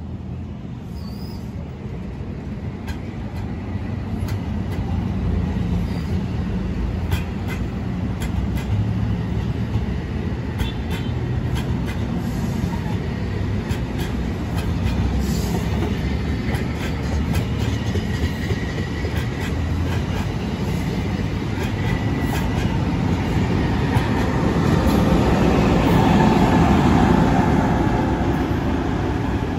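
New Jersey Transit Multilevel commuter train passing on the electrified main line: a steady rumble of wheels on rail with repeated clicks over the rail joints and a faint wheel squeal. It grows louder toward the end as the electric locomotive at the end of the train goes by.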